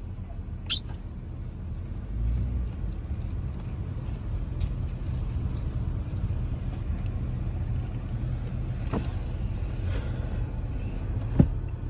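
Low, steady rumble of a car heard from inside the cabin, swelling a little about two seconds in. A few short, sharp clicks stand out near the end.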